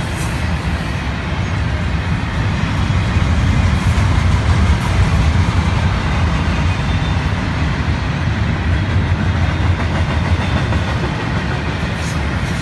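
Intermodal freight train rolling past: a steady rumble of wheels on the rails, swelling slightly about four to five seconds in.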